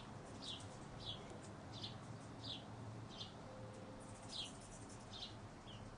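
A bird chirping: a steady series of short, downward-sliding high chirps, a little more than one a second.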